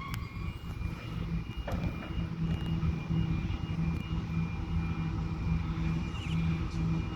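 Diesel locomotives on an arriving coal train, engines running with a steady low drone. A faint steady high whine sits above it.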